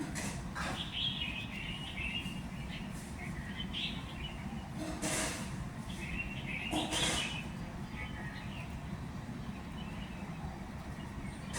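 Small birds chirping and twittering in short, scattered bursts over a steady low rumble, with brief rushes of noise about five and seven seconds in.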